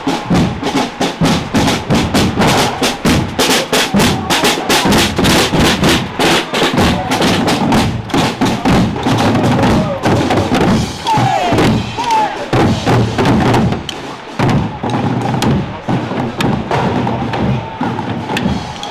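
Procession drums beating a fast, steady rhythm of several strokes a second, with crowd voices. Around halfway through the drumming loosens and crowd voices and a few short whistle-like tones come through.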